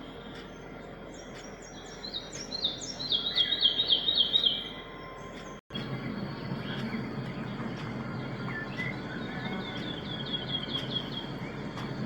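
A bird calling in fast, high rattling series of short notes that each slide downward, loudest early on. The sound cuts out abruptly in the middle, then a fainter series of the same calls comes over a low rumble.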